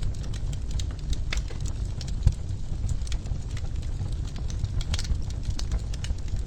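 Wood fire crackling in a fireplace: frequent sharp pops and snaps over a low steady rumble, with one louder pop a little over two seconds in.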